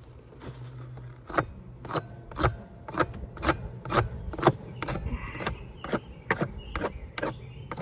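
Quick scraping strokes across the wooden hive, about two a second, in an even rhythm.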